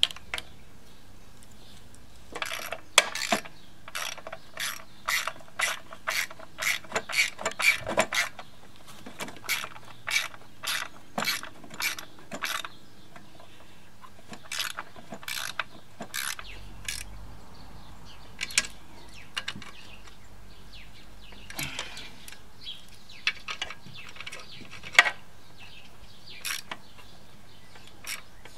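Socket ratchet clicking as engine mounting bolts are wound in: a run of quick clicks for about ten seconds, then scattered strokes with pauses.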